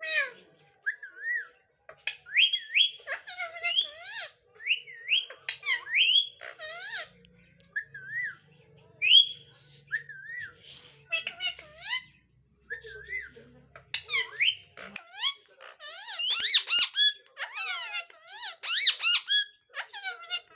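Pet parrot whistling and chattering in many short, high calls that rise and fall in pitch, growing busier and louder over the last few seconds.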